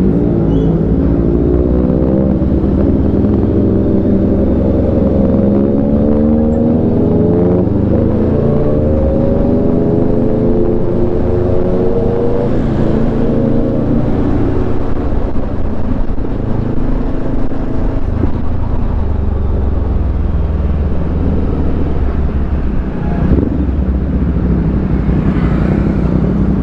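Motorcycle engine running under way, its pitch climbing and dropping several times in the first few seconds as it accelerates through the gears, then settling into a steadier low rumble.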